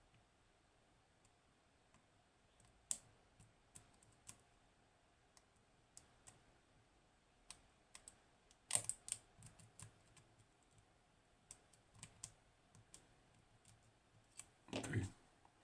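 Faint, scattered small clicks and taps of a lock pick and tension tool working the pins of a Hori Trident high-pin-count lock, with a louder burst of clicks a little past halfway.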